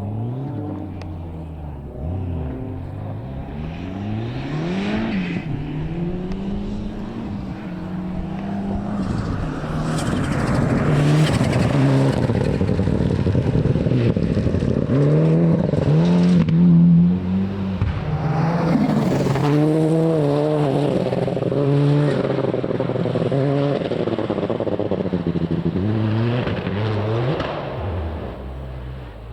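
Rally car engine revving hard, its pitch climbing and dropping again and again through gear changes and lifts off the throttle. It grows louder toward the middle as the car comes close and passes, then carries on revving as it pulls away.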